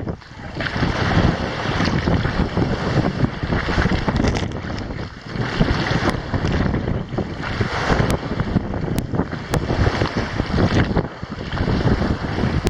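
Wind buffeting the microphone over water rushing along the hull of a sailboat heeled over under sail, the noise rising and falling unevenly.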